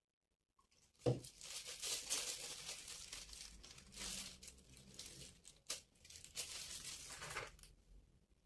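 Crinkling and rustling of something being handled, beginning with a knock about a second in and going on in uneven swells.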